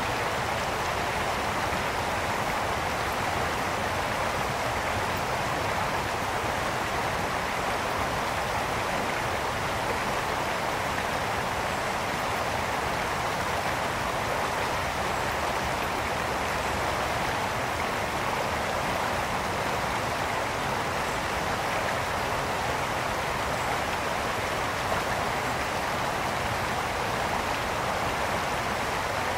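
Brook water flowing and burbling over stones, a steady rushing sound.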